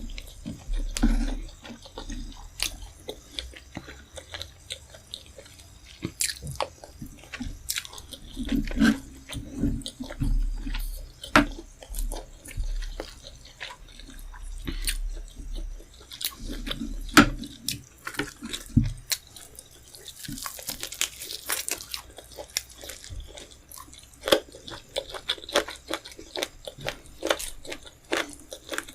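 Close-miked eating of rice, tomato stew, chicken and fish head: chewing and biting, with wet mouth clicks and sharp crunches throughout. A brief hiss comes a little past the middle.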